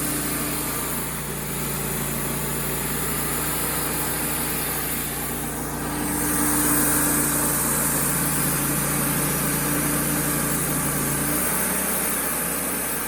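Wood-Mizer LT35HD portable bandsaw mill running steadily, its blade cutting through a red oak log. The high hiss of the cut grows louder about six seconds in, and the low hum drops away near the end.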